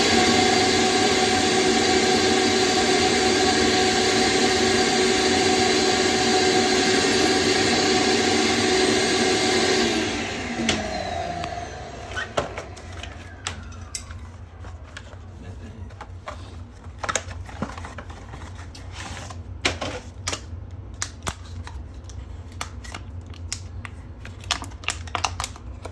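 An electric motor runs at a steady whine for about ten seconds, then winds down with a falling pitch. After that come scattered clicks and knocks of tools and parts being handled.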